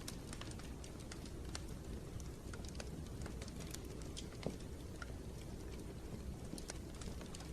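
Wood fire crackling in a fireplace: irregular sharp pops and snaps over a low steady rumble, with one louder pop about halfway through.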